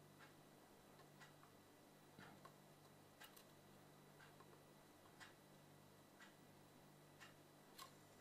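Near silence: faint, irregular small clicks, roughly one a second, over a low steady hum.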